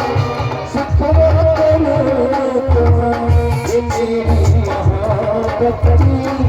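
Live band music with no vocal: an instrumental break in a Hindi film song, a held melody over a steady drum beat.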